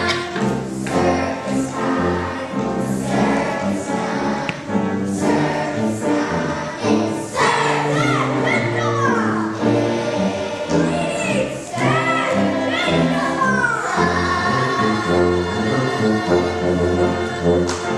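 Music with a group of voices singing together over an accompaniment.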